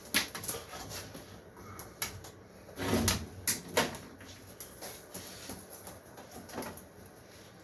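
Thermostat cable being handled and worked by hand: a run of small sharp clicks and short rustles, busiest about three to four seconds in and thinning out toward the end.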